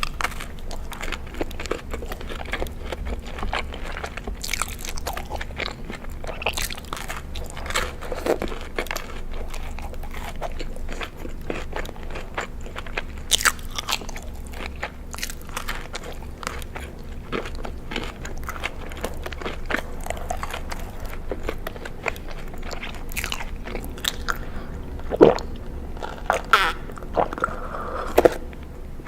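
Close-miked eating: crunchy food being bitten and chewed, with a steady run of small crackling crunches and a few louder bites near the end.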